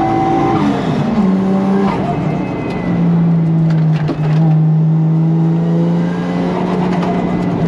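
Drift car's engine heard from inside the cabin: the revs drop about a second in, then hold high and steady through a slide, with tyre noise underneath.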